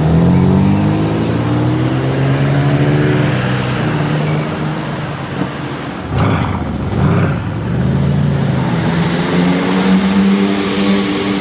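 Performance car engine on the street: its note falls in pitch over the first few seconds, two short louder bursts come about six to seven seconds in, and the engine note climbs again near the end as it accelerates.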